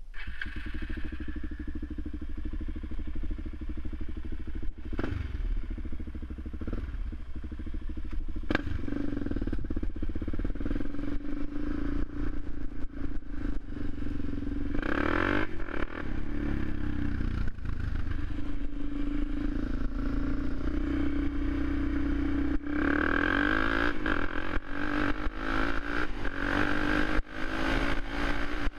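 Suzuki LTZ 400 quad's single-cylinder four-stroke engine running, with the revs raised briefly about halfway through and held higher again near the end.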